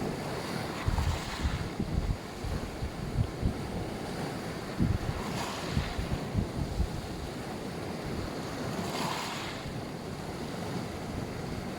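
Black Sea waves breaking and washing up the beach, the surf swelling about five and a half seconds in and again about nine seconds in, with wind buffeting the microphone.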